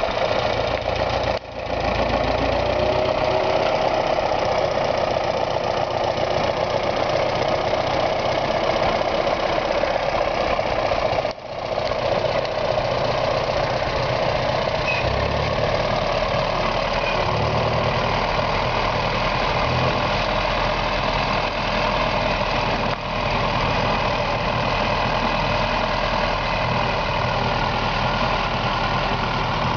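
1951 Farmall M tractor's four-cylinder engine running steadily at low speed while the tractor is driven, with two brief dips in the sound, about a second in and again around eleven seconds.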